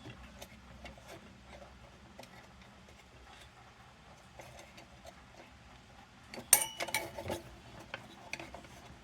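Small metal lantern parts being handled and taken apart: faint scattered clicks, then a quick cluster of sharp metallic clinks and clatter about six and a half seconds in.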